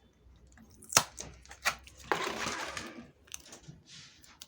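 Saw-blade packaging being handled during unboxing: a sharp click about a second in, then about a second of rustling or scraping, and a few lighter clicks near the end.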